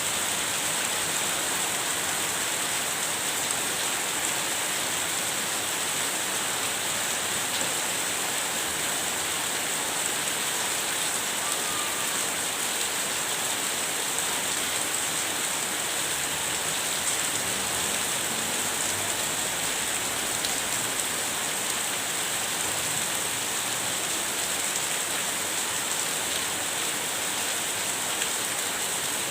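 Rain falling steadily in a rainstorm: an even, unbroken hiss.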